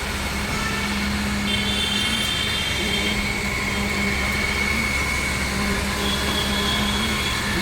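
Ready-mix concrete pump running steadily: a constant low engine rumble with a steady hum, and a thin high tone that comes and goes.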